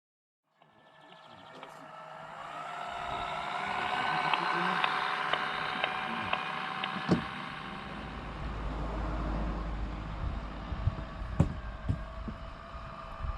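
1:14 scale RC Mercedes Kurzhauber truck running, with a steady pitched hum that fades in and grows louder over the first few seconds, a few light clicks, and two sharp knocks.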